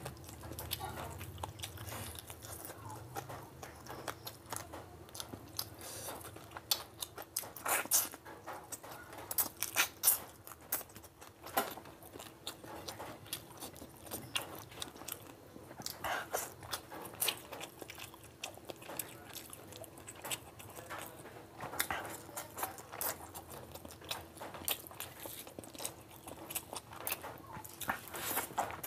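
Close-miked chewing of handfuls of curry and rice eaten by hand, with many irregular sharp, wet mouth clicks.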